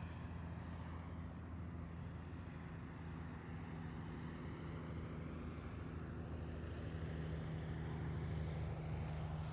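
A steady engine hum that slowly grows louder.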